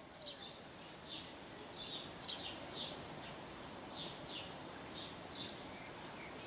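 Birds chirping: a run of short, high, downward-slurred notes, about two a second, over a steady outdoor hiss.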